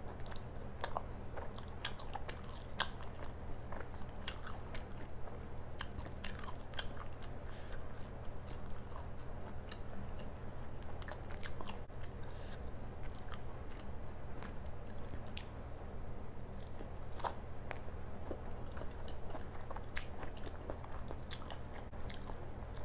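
Close-miked chewing and biting of mouthfuls of paratha, with many irregular wet clicks and crunches, over a steady low hum.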